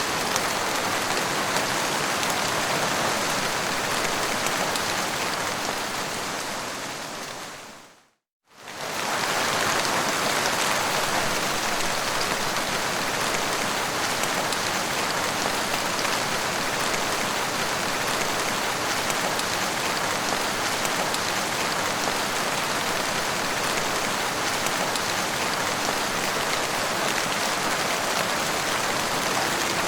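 Steady heavy rain. About eight seconds in it fades away to a moment of silence, then starts again abruptly at full strength, where the recording loops.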